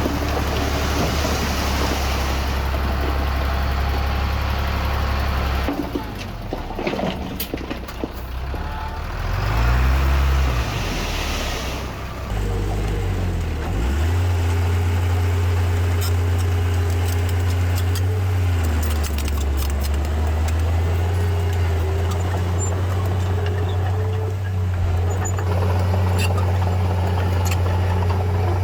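Diesel engine of heavy earthmoving machinery running steadily, with its pitch dipping and changing twice around the middle, along with scattered metallic clicks.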